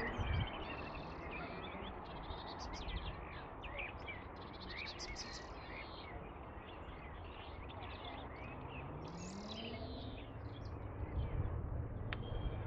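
Several small birds singing and chirping, quick tweets and trills overlapping one another, over a steady low rumble. A faint low hum rises in pitch about eight seconds in.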